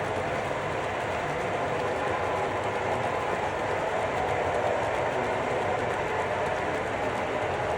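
Train rolling along the rails: steady wheel-on-rail running noise that holds an even level throughout.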